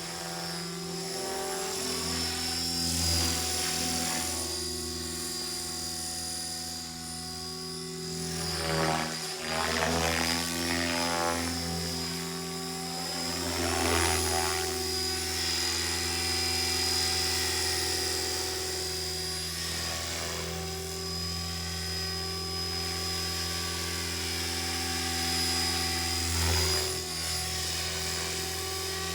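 Radio-controlled model helicopter flying: a steady rotor drone with a high motor whine, swelling and shifting in tone every few seconds as it moves about.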